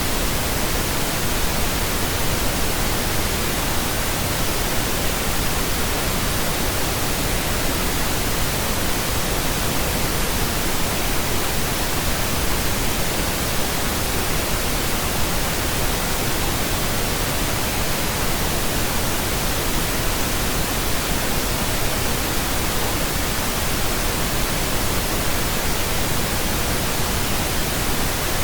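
Steady synthetic pink noise: an even, unchanging hiss spread across all pitches, with no tones, rhythm or events.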